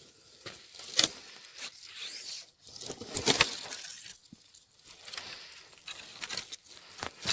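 Footsteps crunching through snow, a crunch roughly every second.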